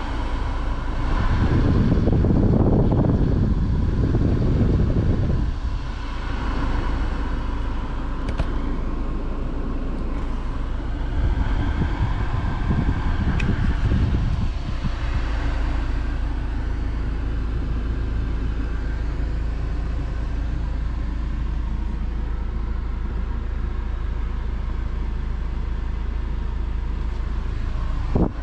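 Steady low rumble of a BMW's engine idling, heard from inside the cabin. Louder rustling noise over the first five seconds or so, and a sharp click just before the end.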